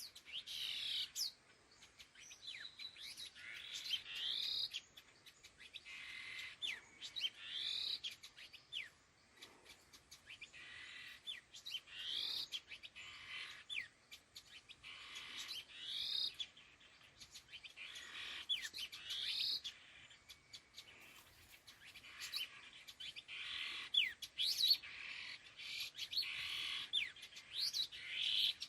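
Khướu lùn đuôi hung, a small babbler, calling: short phrases of chirps and quick rising and falling whistles, repeated about every two seconds, with sharp short notes between them.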